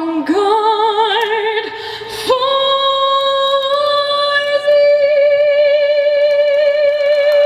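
A woman singing solo with a wide vibrato, then holding one long high note from about two seconds in to the end, the note lifting slightly partway through.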